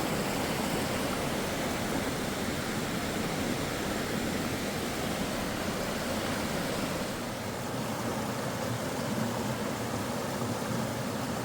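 Steady rush of falling water, an even hiss across all pitches with no rhythm.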